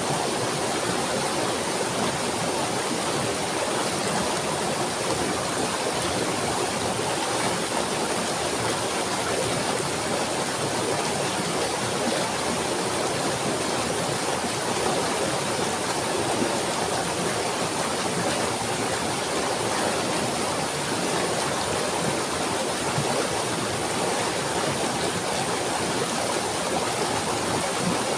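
Running water making a steady, even rush that does not change, with a thin high hiss on top.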